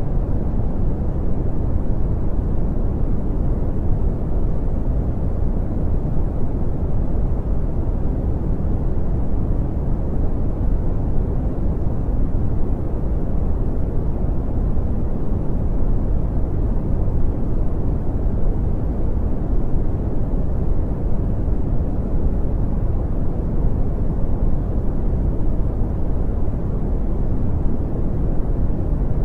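Brown noise: a steady, unchanging deep rumbling hiss, strongest in the low end and dull above, with no rhythm or events.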